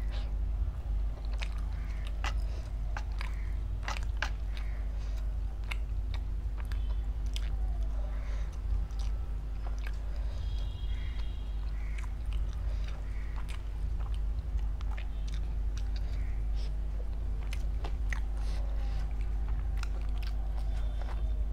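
Close-up mouth sounds of a person biting and chewing chicken butter masala eaten by hand, with frequent wet clicks and smacks. A steady low hum runs underneath.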